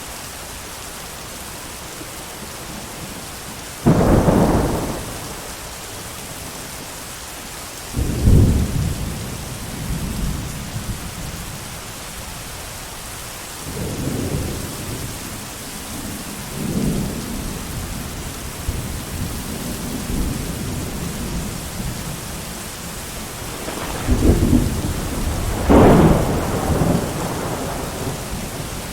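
Steady heavy rain with thunder: sudden sharp claps about four and eight seconds in, softer rolling rumbles in the middle, and a long, loud rolling peal near the end.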